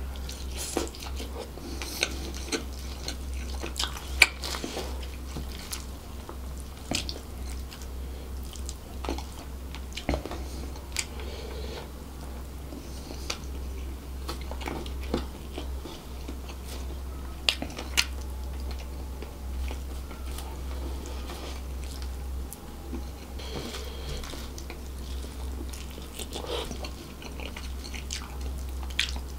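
Close-miked chewing and biting of a man eating spicy fried chicken and fried rice by hand, with many short sharp mouth clicks scattered throughout. A steady low hum runs underneath.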